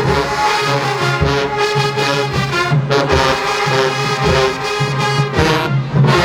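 Marching band playing, brass harmonies over a sousaphone bass line and drum strokes.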